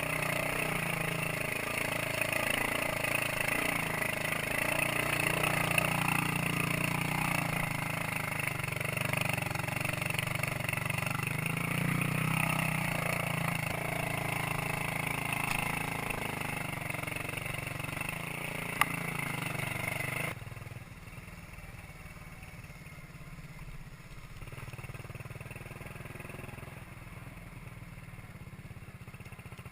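Minsk 125 cc two-stroke motorcycle engine running while being ridden, with rushing noise over it. About twenty seconds in the sound cuts abruptly to a quieter engine sound.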